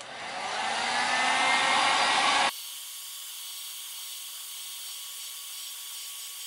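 Handheld electric heat gun blowing on a foam fishing-rod grip to dry it after cleaning. It spins up, rising slightly in pitch over the first two seconds. About two and a half seconds in it drops abruptly to a quieter, thinner hiss.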